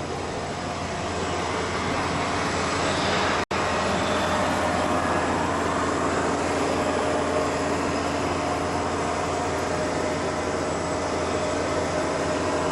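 Steady whooshing hum of a parked Boeing 747-400's cabin air conditioning, with a few faint held tones; the sound cuts out for an instant about three and a half seconds in.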